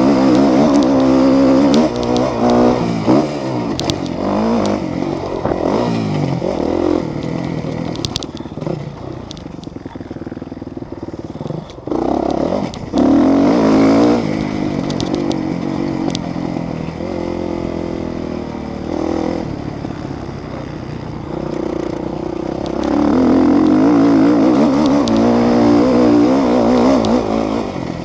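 Several motocross motorcycle engines revving up and down, overlapping as bikes pass close by and move away, with a few loud close passes.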